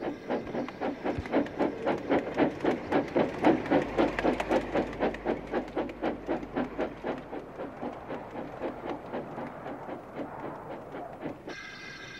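Train running with a steady rhythmic chug, about five beats a second, fading away gradually. Near the end a steady ringing tone comes in.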